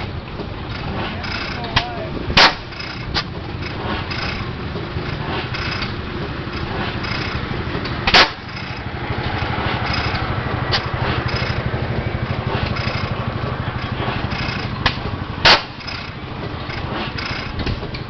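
A 40 hp Witte hit-and-miss gas engine firing three times, each one a single sharp bang, about six to seven seconds apart. It coasts on its flywheels between firings, the governor holding it out until the speed drops. Steady machine clatter and murmur run underneath.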